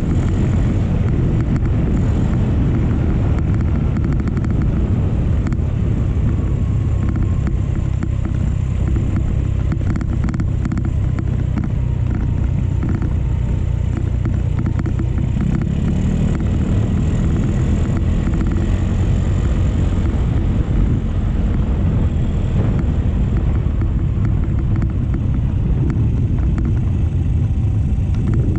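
Steady low rumble of a motorcycle being ridden: engine running with wind noise on the microphone.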